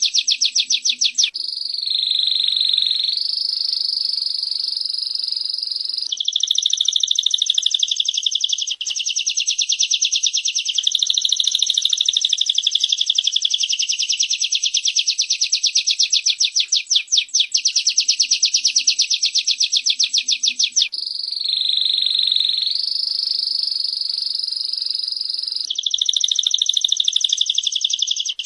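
Female prinia (prenjak) and domestic canary calling: a long, fast, high rattling trill broken twice by a few seconds of smoother song, the same sequence coming round again about every 20 seconds like a looped recording.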